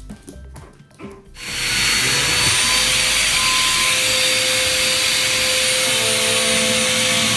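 A loud, steady hiss starts abruptly about a second and a half in and holds at an even level, with a few faint steady tones underneath.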